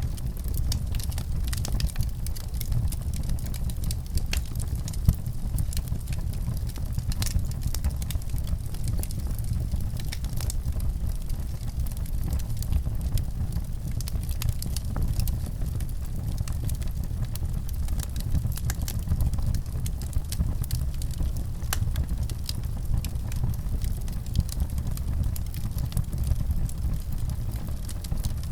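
Fireplace fire burning, with a steady low rumble and scattered sharp crackles and pops.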